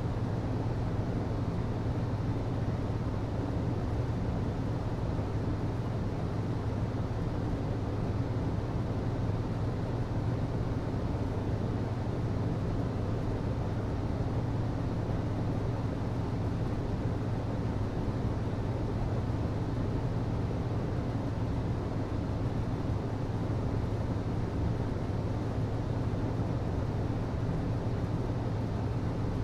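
HVAC system running: a steady low hum with an even rushing noise over it, unchanging throughout.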